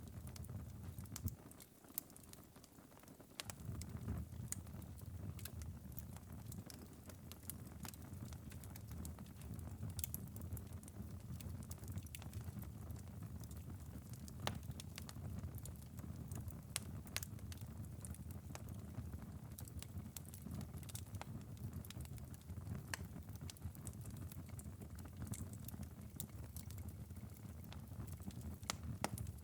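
Glowing wood ember bed in a fireplace crackling: scattered sharp pops and ticks over a low steady rumble. The rumble drops away for a couple of seconds near the start.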